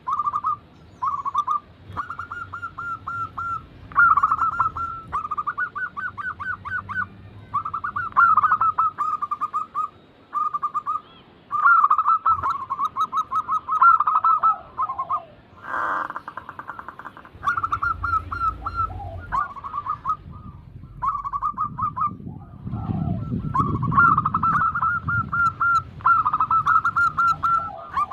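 Zebra doves (perkutut) cooing in their rapid, stuttering phrases of short repeated notes, phrase after phrase with brief pauses between. A low rumble runs underneath through the second half.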